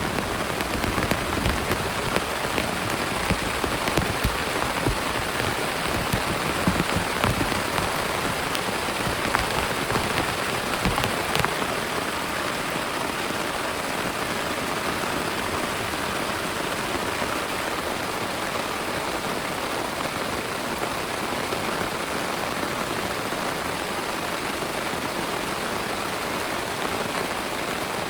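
Heavy rain falling, with many sharp drop hits over the first twelve seconds or so, then settling into an even, steady hiss.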